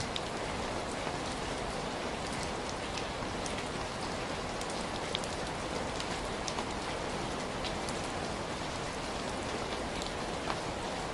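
Heavy rain falling steadily, with a dense even hiss and scattered sharper drop impacts.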